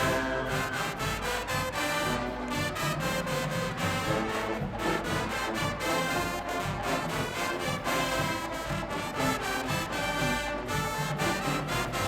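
High school marching band playing: brass section with trumpets and trombones over a steady drumline beat.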